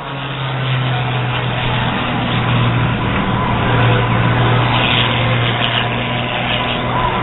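Aerobatic airplane's engine running steadily during a display, a low drone over a broad rush of noise.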